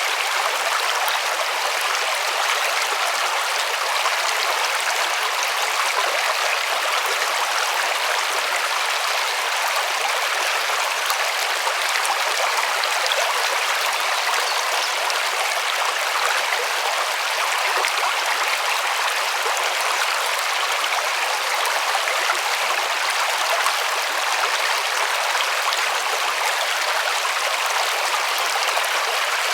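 A river running over stones, a steady rushing, splashing water sound.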